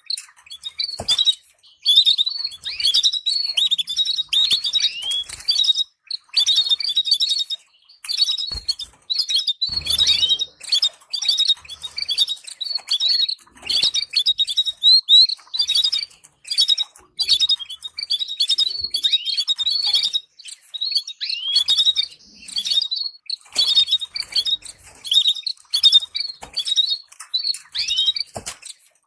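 Canary singing continuously in rapid trills and chirps, phrase after phrase with short pauses, the kind of song played to train young canaries. A few soft knocks are heard now and then.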